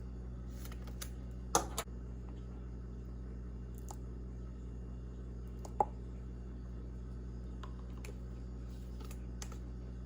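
A few short sharp clicks and taps over a steady low hum, the two loudest about a second and a half and about six seconds in.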